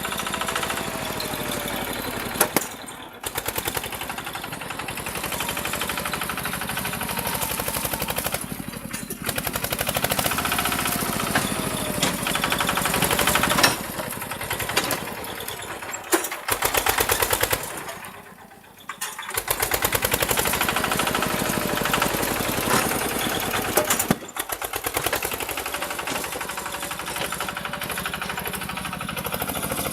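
Tractor engine running with a rapid, even firing beat, its level rising and falling as it works and dropping away briefly a few times.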